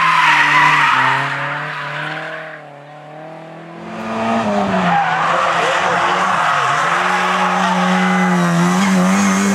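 Rally cars at speed on a special stage: one car's engine note drops and fades as it goes away. A few seconds in, another car comes in loud and revving hard, its pitch dipping and climbing with lifts and gear changes, with tyre and road hiss over it.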